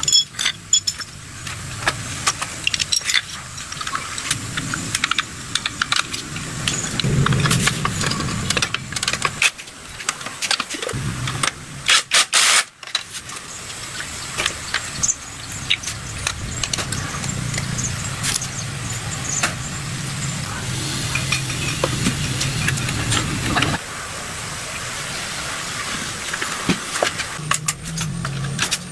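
Repeated metallic clicks and clinks of hand tools and engine parts being handled, over a low steady hum, broken by a few abrupt cuts.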